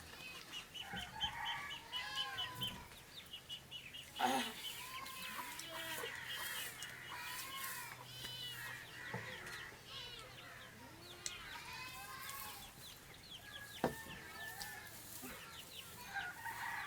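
Chickens clucking and calling in repeated short notes, with a sharp knock about four seconds in and another about fourteen seconds in.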